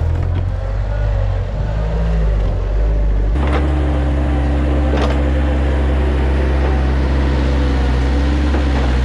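Bobcat 753 skid steer's diesel engine running steadily while the machine works, its note changing abruptly about three and a half seconds in, with two short knocks around then.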